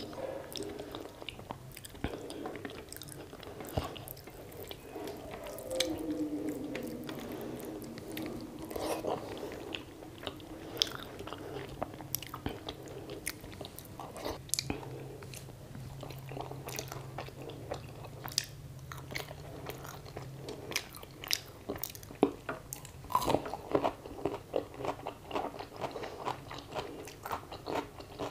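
Close-miked sounds of a person eating rice and mutton curry by hand: wet chewing, lip smacks and finger licking. Near the end the bites come faster and crisper as raw cucumber is crunched.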